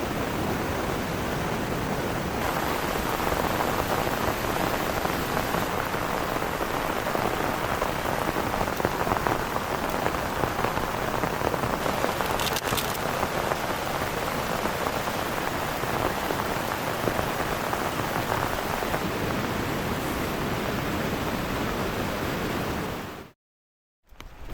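Heavy rain falling steadily, a dense even hiss, fading out a second or so before the end.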